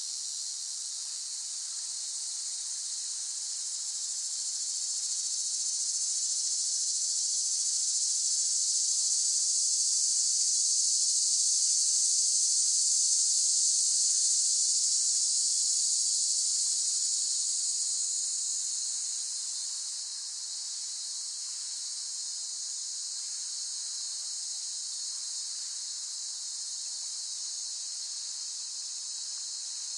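Cicadas buzzing in a dense, steady, high-pitched chorus. It swells louder over a few seconds, holds through the middle, then eases back down about two-thirds of the way through.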